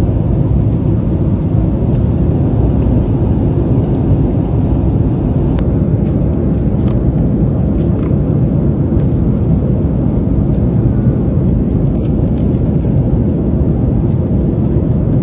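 Airliner cabin noise: the steady, even sound of jet engines and airflow heard from inside the passenger cabin, with a few faint clicks.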